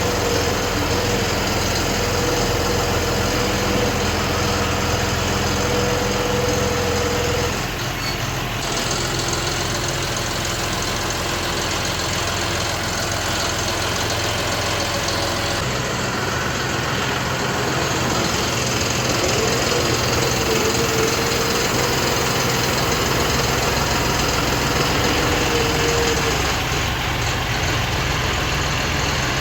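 John Deere 5405 tractor's diesel engine running steadily, its note changing about eight seconds in and again about sixteen seconds in, with a thin whine that wavers up and down above it.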